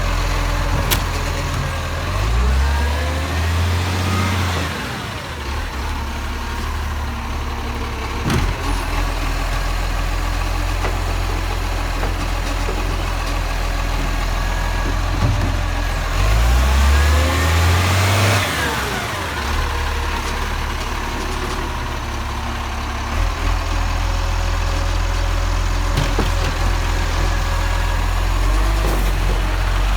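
Garbage truck engine running steadily, revving up and falling back twice, about two seconds in and again about sixteen seconds in.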